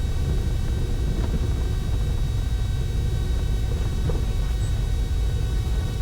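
Cockpit noise of a Cessna 310Q rolling out after landing: a steady low rumble from its twin piston engines at reduced power, with a faint steady high tone over it.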